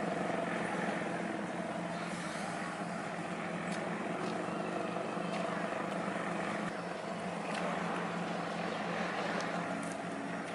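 An engine running steadily, with a few light clicks over it.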